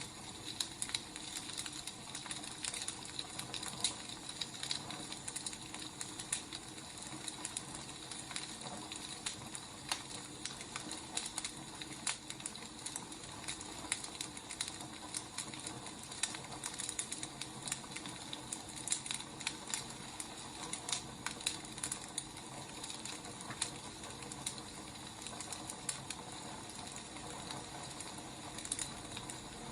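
Firewood burning with a steady hiss and many irregular small crackles and pops.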